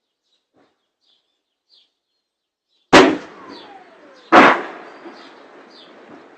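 Two loud artillery shell explosions about a second and a half apart, each a sharp crack with a long rolling tail. Between them the whistle of a shell falls in pitch. Birds chirp in the background.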